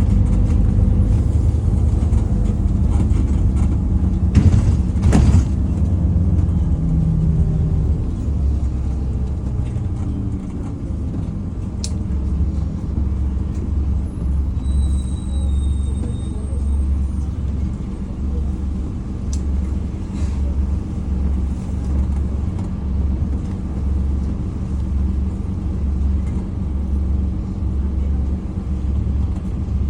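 Scania N230UD Omnicity bus heard from on board: its diesel engine running with a steady low rumble, and a single thump about five seconds in.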